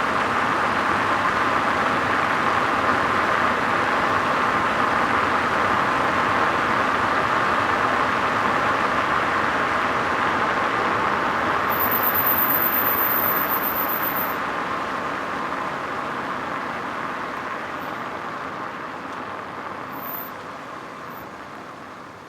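Citroën Saxo engine running, a steady noisy sound that grows gradually quieter over the last eight seconds or so. A short, very high-pitched whine is heard about twelve seconds in.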